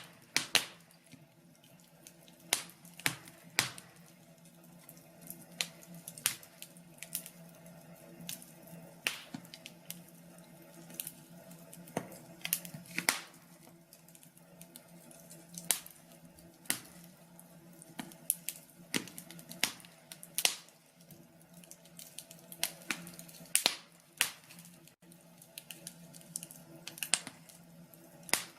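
Wood fire in a fireplace crackling: irregular sharp pops and snaps, a few each second and some much louder than others, over a faint steady low background.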